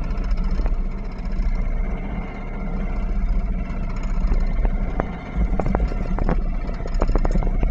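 Sailboat's inboard engine running steadily as the boat motors away from the dock, with several short sharp clicks or knocks in the second half.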